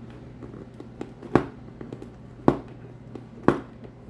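Three sharp taps on a welding helmet's shell, about a second apart, with a few lighter clicks between them, as the helmet is handled while air bubbles are pressed out of a freshly applied sticker.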